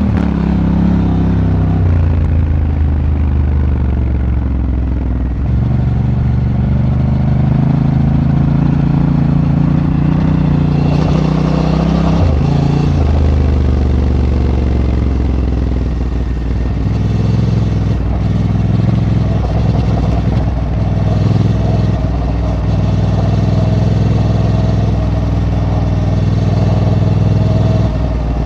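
Honda Africa Twin motorcycle engine heard on board while riding. The revs rise and fall with throttle and gear changes, with a clear dip about twelve seconds in.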